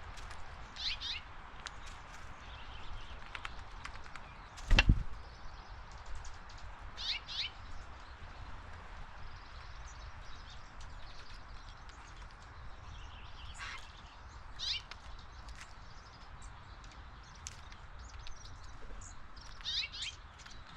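Backyard birds giving short high chirps every few seconds, some falling in pitch, over a faint steady outdoor hiss. A single loud thump about five seconds in.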